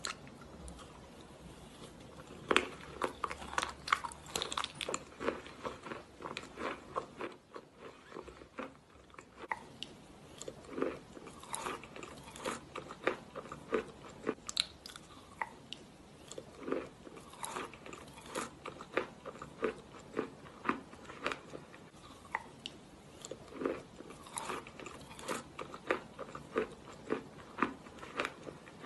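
Crushed chalk being crunched and chewed in the mouth, with many short crisp crunches in quick succession and a brief lull about eight seconds in.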